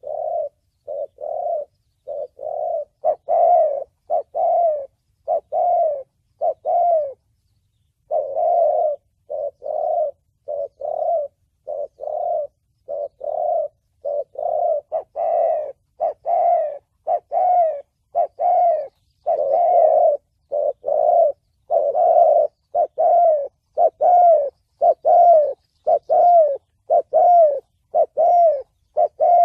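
Spotted dove cooing: a long run of short, repeated coos, more than one a second, with a pause of about a second roughly seven seconds in. These are the 'thổ bầu' call type used as a lure for trapping doves.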